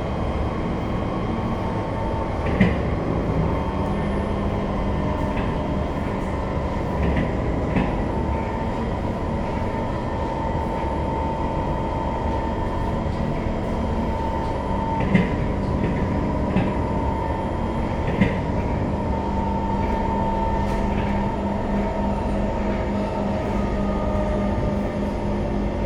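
SMRT C151 metro train running on the rails: a steady rumble with a constant motor whine. Several sharp clicks sound through it, a couple in the first eight seconds and a cluster in the second half.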